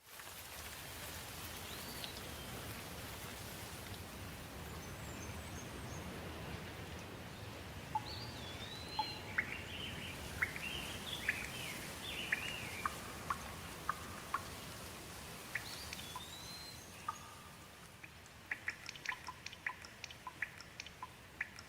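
Steady rain with birds calling over it, a series of whistled chirps and gliding notes in the middle. Near the end the rain hiss eases and sharp drip-like ticks come in quick succession.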